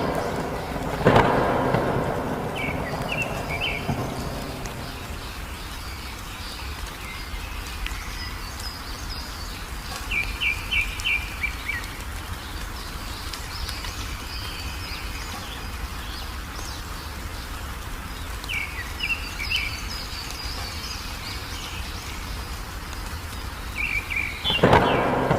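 Steady rain with thunder: a loud crack about a second in that rumbles away over a few seconds, and another just at the end. A songbird sings short phrases of quick chirps four times through the rain.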